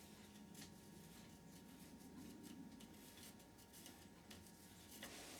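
Near silence with faint, light scratching: a pencil marking out on wood.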